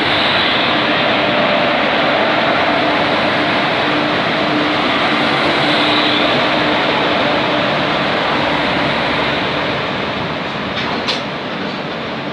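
Loud, steady train running noise at close range as a goods train hauled by two WAG-5 electric locomotives passes alongside, with a steady hum while the locomotives go by. A few sharp clicks near the end, as the box wagons pass.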